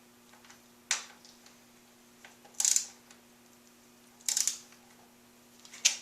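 Short metallic clicks and clinks of hand tools working on the motorcycle's front end, a handful of sharp bursts spaced a second or two apart, over a faint steady hum.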